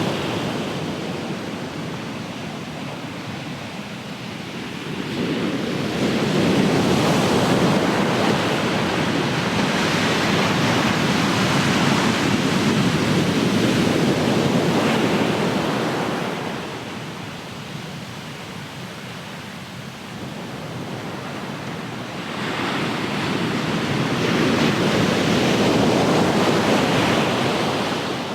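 Ocean waves breaking and washing on the shore, a continuous rush of surf that swells and ebbs in two long surges, the quieter spells a few seconds in and again after about 17 seconds.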